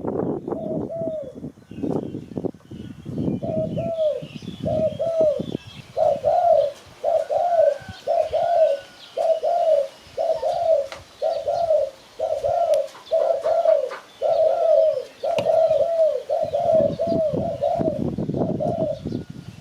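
Spotted dove cooing: a long run of short, falling coo notes, about two a second. A rustling noise runs under the start and comes back near the end.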